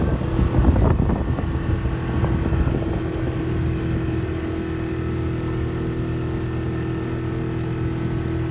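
A small boat's motor running at a steady speed, with an even hum.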